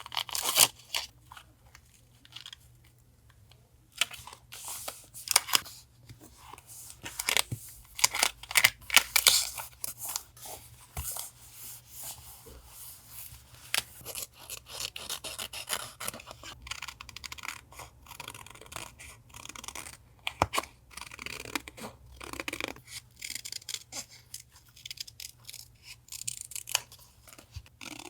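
Paper being handled while a journal is decorated with collage: intermittent rustles, crinkles and small sharp clicks, busiest about a third of the way in, under a faint steady low hum.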